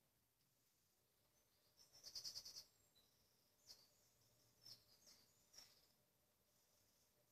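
Faint quiet, broken about two seconds in by a short burst of rapid high chirping, with a few soft single clicks over the next few seconds.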